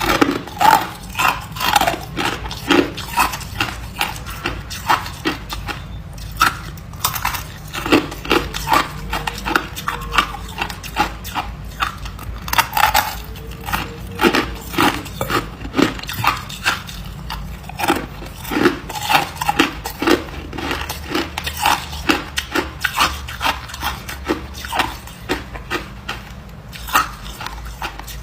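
Ice being bitten and crunched between the teeth close to the microphone: a dense, irregular run of sharp cracks and crunches, several a second, with short pauses between mouthfuls.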